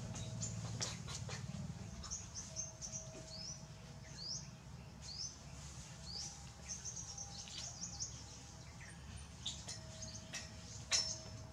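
Small birds chirping: short, high, rising chirps repeated every half second or so, over a low steady hum. A few sharp clicks stand out near the end.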